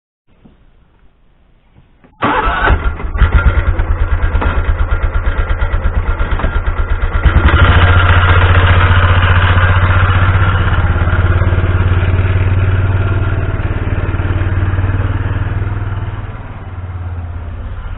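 A vehicle engine starts about two seconds in and runs with an uneven pulse. It settles into a louder, steady running from about seven and a half seconds and eases off a little near the end.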